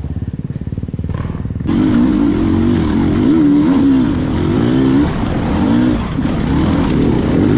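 Two-stroke dirt bike engine running at low revs, then about two seconds in it becomes much louder and revs up and down repeatedly under blips of the throttle.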